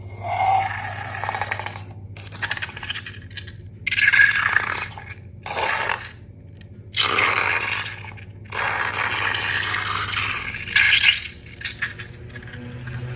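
Slime being worked by hand, in several separate bursts of wet crackling and popping, over a faint steady hum.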